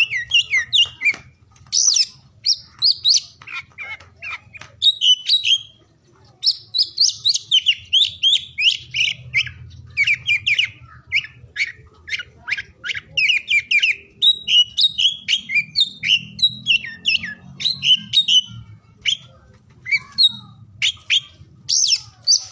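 Oriental magpie-robin (kacer) singing: a fast, continuous run of short, sharp whistled and chattering notes, broken by brief pauses about a second and a half in and again around six seconds.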